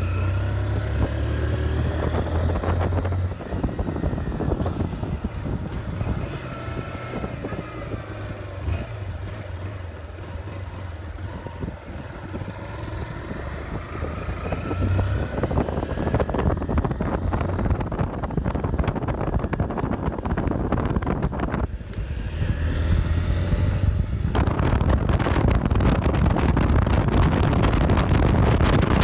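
Honda CG 160 Start motorcycle's single-cylinder four-stroke engine running while riding, its pitch rising and falling as it accelerates and shifts. Wind buffets the microphone, louder in the last few seconds.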